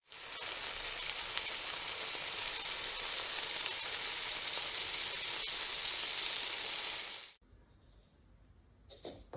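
A steady, even hiss that cuts off suddenly about seven seconds in.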